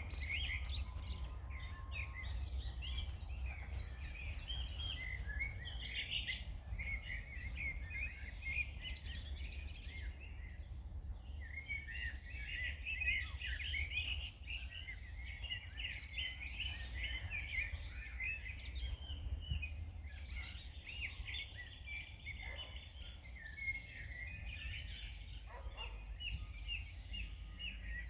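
Several songbirds singing and chirping at once in a dense, unbroken chorus of quick high notes, over a steady low rumble.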